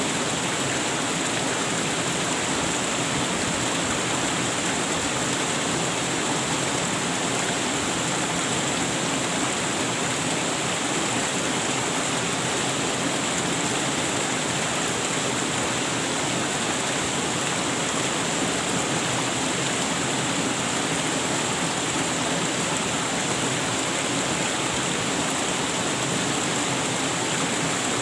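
Waterfall rushing steadily, an even wash of falling and splashing water with no change in level.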